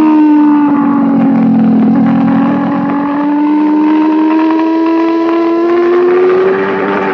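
Racing motorcycle engine at high revs, held in one gear through a long leaned-over corner: its note sags slightly in the first couple of seconds, then climbs steadily as the throttle opens.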